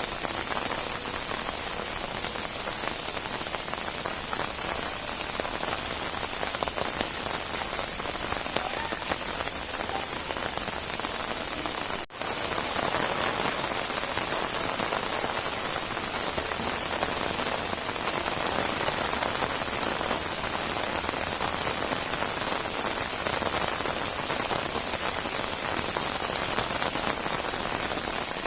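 Rainstorm: steady rain falling on surfaces, a dense even hiss. It drops out for a split second about twelve seconds in and comes back slightly louder.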